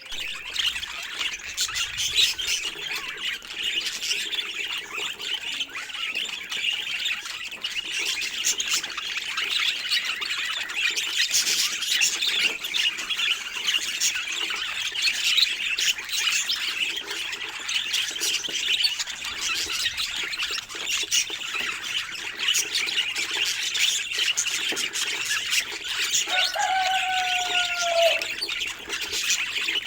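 Several budgerigars chattering and warbling, a dense, continuous mix of squawks, chirps and clicks. Near the end a lower, slightly falling note lasts about two seconds.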